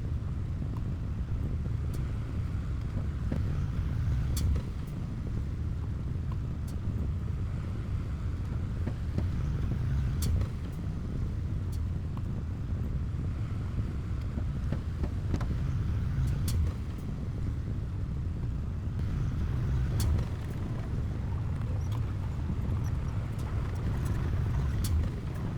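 Heavy earthmoving machinery's diesel engine running with a steady low rumble. A few sharp metallic clanks come through now and then.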